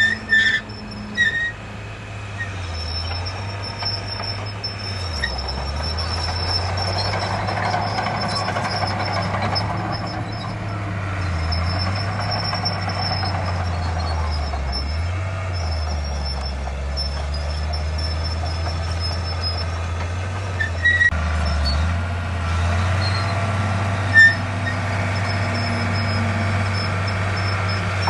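Heavy diesel earthmoving machinery running steadily, its low engine note dipping briefly several times. A faint high-pitched whine comes and goes over it.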